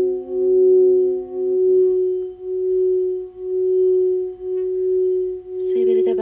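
Singing bowl ringing with one strong sustained tone that swells and fades about once a second; a second, lower tone dies away about two seconds in. Near the end a voice begins vocalizing over it.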